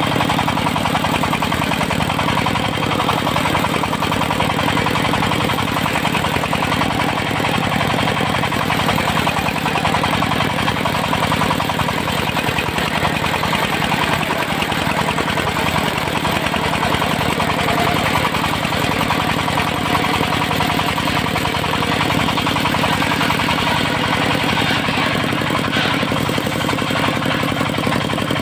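Engine of a mobile circular-saw sawmill running steadily at an even speed.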